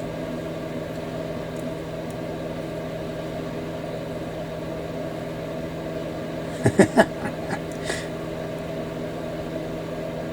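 Steady electrical hum from a running appliance in a small room, with a quick cluster of sharp plastic clicks and taps about two-thirds of the way in as small model kit parts are handled and pushed into place.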